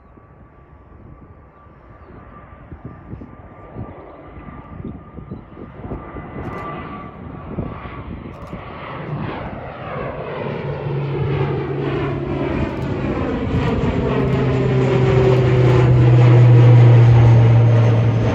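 Loganair airliner departing, its engines growing steadily louder as it approaches and passes close by, loudest near the end before starting to fade, with a strong steady low hum.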